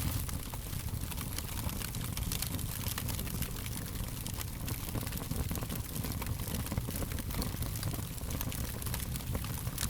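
Fire crackling: many small, irregular pops and snaps over a steady hiss and low rumble.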